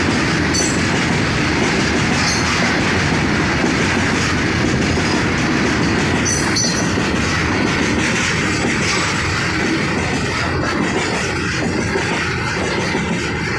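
Train running along the track: a loud, steady rumble with short high squeaks now and then.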